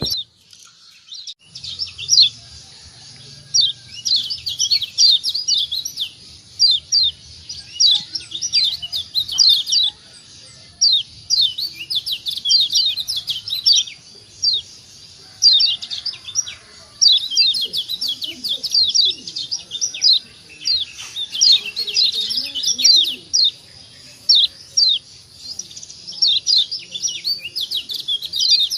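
Lombok yellow white-eye (kecial kuning) giving rapid runs of short, high, down-slurred 'ciak' chirps in repeated bursts with brief pauses between them.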